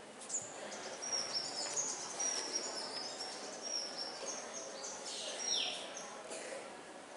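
Birds chirping: many short, high calls in quick succession.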